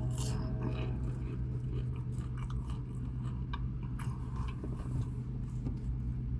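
Close-up chewing of a fried, battered onion ring: wet crunching and smacking with many small crackles, over a steady low hum.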